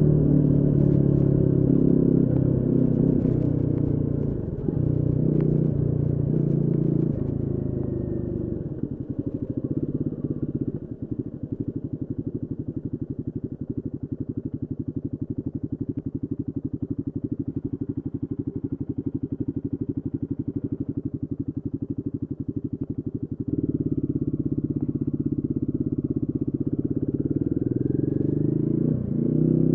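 Royal Enfield Guerrilla 450's single-cylinder engine running: it pulls with changing pitch for the first several seconds, settles to a quieter, even pulsing from about nine seconds in, then steps back up to a louder, steady run about twenty-three seconds in, rising in pitch near the end.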